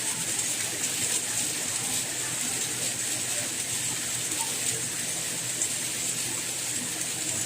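Steady rain falling: an even, unbroken hiss with a bright upper edge.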